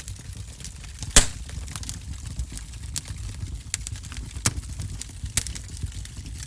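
Wood fire burning in a fireplace: a steady low rumble of flames with sharp pops and crackles of burning wood, the loudest pop about a second in.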